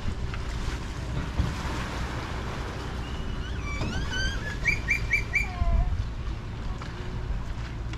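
A bird calling, a run of short rising chirps followed by four quick repeated notes and a lower falling note, over a steady low rumble of wind and water.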